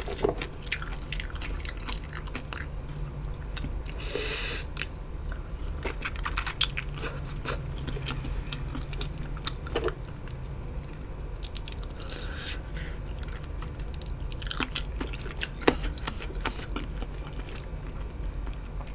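Close-miked chewing of a mouthful of khanom jeen rice noodles in curry with fresh vegetables: many small scattered clicks of the mouth, with a brief louder noisy burst about four seconds in.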